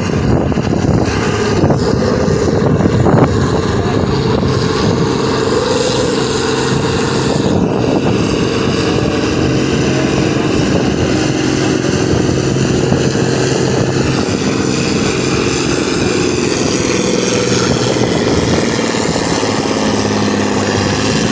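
Farm tractor's engine running hard at high revs under heavy load, pulling a weight-transfer sled in a tractor pull. The sound is loud and steady, with small shifts in pitch.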